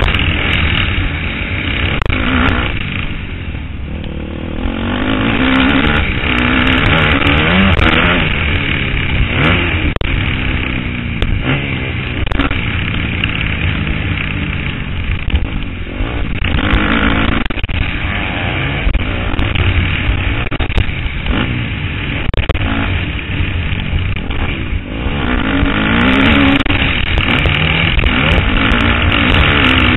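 KTM 250 SXF four-stroke single-cylinder motocross engine revving hard, its pitch rising and falling again and again as the rider works the throttle and gears. The throttle is briefly shut about three seconds in and again near the end, with a steady low rumble of wind beneath, heard from a helmet camera.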